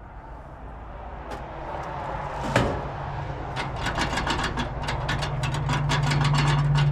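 A road vehicle approaching and passing, its engine hum and tyre noise growing steadily louder. There is a sharp knock about two and a half seconds in, and a run of quick clicks in the second half.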